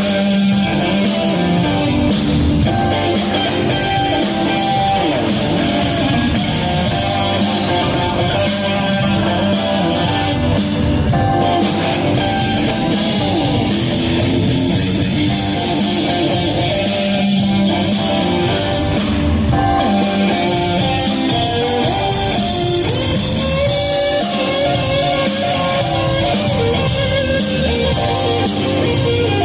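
A live rock band plays an instrumental passage with no vocals: electric guitar over bass and drum kit, with a steady beat.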